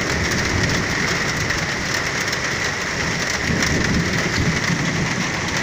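Torrential rain pouring down onto the street and pavement in a steady, dense hiss.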